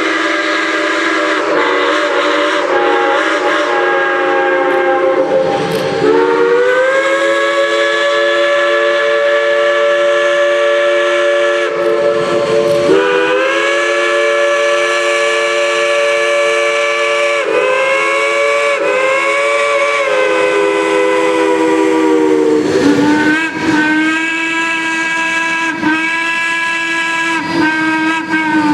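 Steam locomotive whistles blowing a chord of several notes in a series of long blasts, each sliding up in pitch as it opens, with short breaks between, over a steady hiss of steam.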